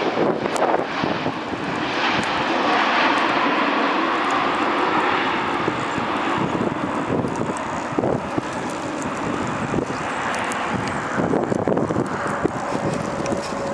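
Jet airliner's engines running, a loud steady rush with a faint whine that sinks slightly in pitch a few seconds in.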